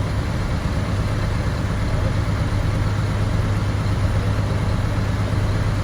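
A heavy construction machine's engine running steadily at low speed, a constant low hum.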